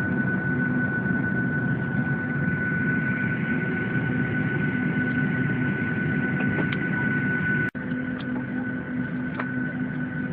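Steady Boeing 737-800 cabin noise on the ground: a low rush of air with a constant high whine above it. The sound cuts out for an instant about three-quarters of the way through.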